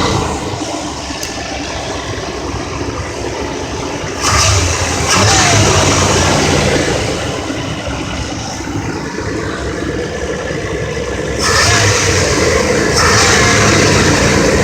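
A 4.3-litre V6 engine running at idle. It is revved up about four seconds in, drops back to idle, and is revved again near the end.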